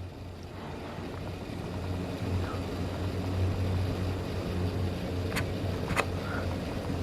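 A steady low engine drone that slowly grows louder, with two sharp clicks about half a second apart near the end.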